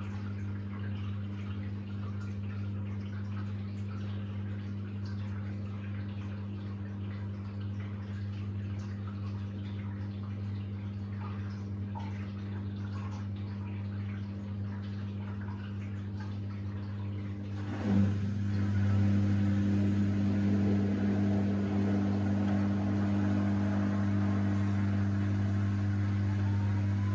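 Samsung WD70T4047CE washer-dryer's drain pump humming steadily while water drains, with faint trickling. About 18 seconds in there is a knock, and the machine gets louder as the drum motor starts turning, with a faint rising whine near the end as it begins to speed up toward the final spin.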